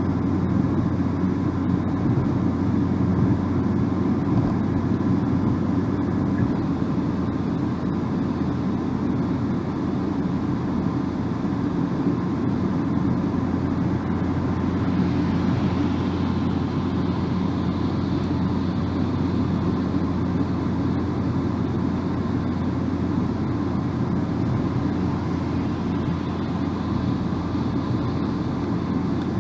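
Steady low road and tyre rumble inside a moving car's cabin at cruising speed. A faint higher hiss grows a little about halfway through.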